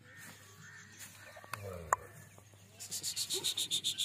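A bird's rapid trill of high chirps, about ten a second, starting about three seconds in, over a low steady hum and faint scattered farmyard sounds.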